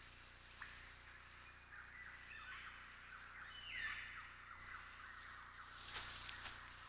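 Faint outdoor ambience of scattered bird calls and chirps, including a short call that glides downward about four seconds in, with a few soft clicks near the end.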